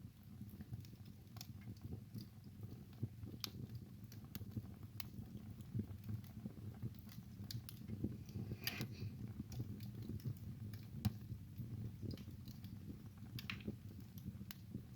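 Wood fire burning in a fireplace: a steady low rumble of flames with irregular sharp crackles and pops, and a short hiss of escaping gas about halfway through.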